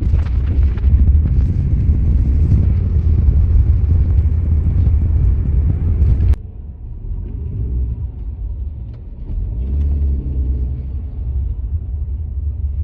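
Low, steady vehicle rumble. It drops suddenly to a quieter rumble about six seconds in.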